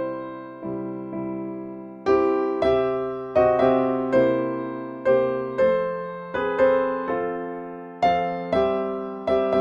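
Piano playing a slow hymn tune in struck chords, about one every three-quarters of a second, each ringing and fading before the next.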